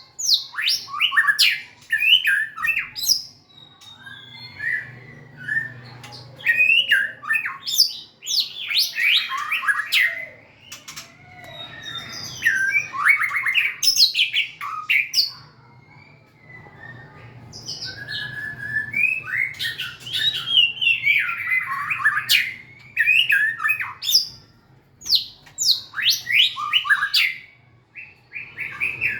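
White-rumped shama singing: a string of varied phrases of quick, sliding whistled notes and chirps, with short pauses between phrases.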